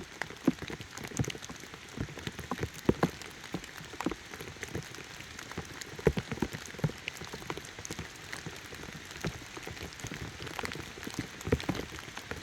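Rain falling, with many irregular sharp drops tapping close to the microphone.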